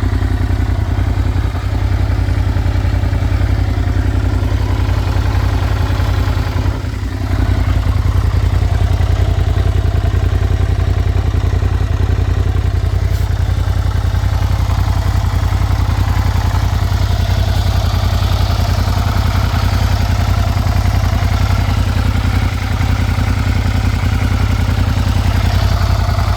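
2011 Suzuki SV650S's 645 cc V-twin engine idling steadily while warming up from a cold start, with a short dip in level about seven seconds in.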